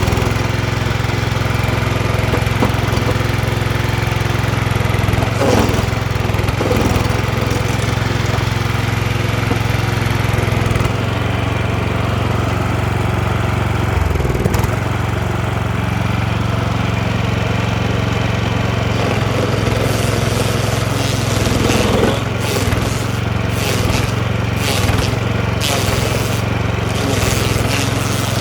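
DR stump grinder's gas engine running steadily at working speed while its tungsten-tipped cutting wheel grinds into a tree stump, the engine note shifting briefly a few times as the blades bite.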